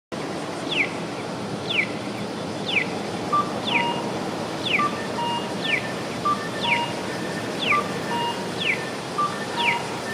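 Electronic bird-chirp audible signal of a Japanese pedestrian crossing, a short falling chirp repeating about once a second with short beeps between, over steady street noise.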